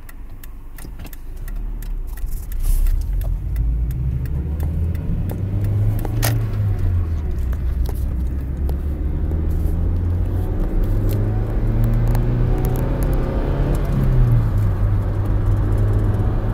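2003 Mazda Protege5's 2.0-litre four-cylinder engine running under light throttle as the car drives, getting louder over the first few seconds, with an odd noise that the owner thinks sounds like knocking and guesses may be an alternator bearing.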